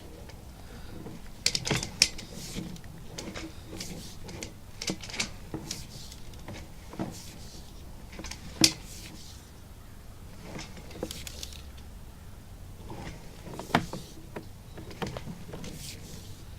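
Sewer inspection camera rig being fed through a drain line: irregular clicks and knocks from the push cable and reel over a steady low hum, with sharper knocks about two seconds in, near the middle and near the end.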